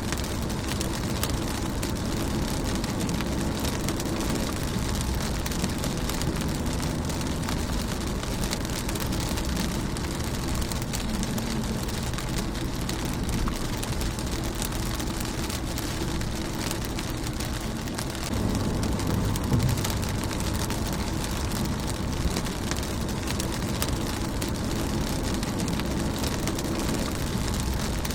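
Rain falling steadily on a car's windshield, a dense hiss of small drop hits. A low rumble swells briefly about two-thirds of the way through.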